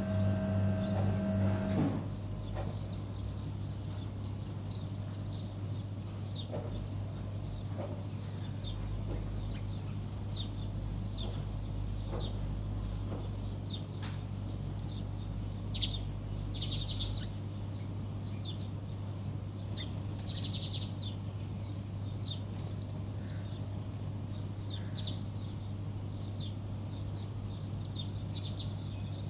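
A flock of small birds chirping busily, with many short, high calls overlapping. A louder steady droning hum stops about two seconds in, and a fainter low hum carries on underneath the birds.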